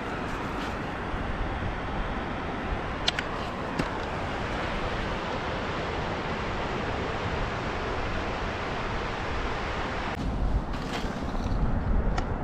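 Steady wind and surf noise on the shore, with a couple of brief clicks about three seconds in; from about ten seconds in, gusts buffet the microphone with a low rumble.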